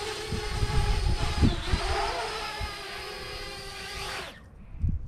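Parrot Bebop 2 quadcopter's motors and propellers whining in flight, a steady pitched hum that cuts off suddenly about four seconds in. Wind rumbles on the microphone underneath.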